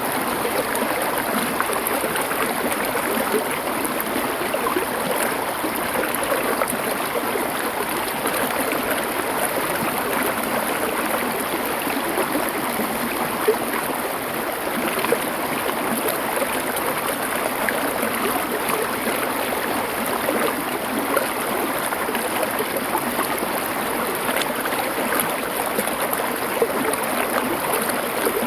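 Stream water flowing over stones: a steady rushing with small splashes here and there.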